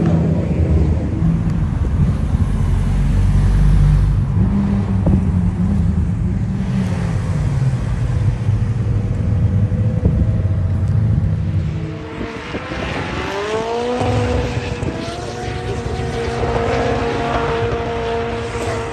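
Car engines: a deep engine rumble for about twelve seconds, then engine notes climbing in pitch and holding as engines are revved.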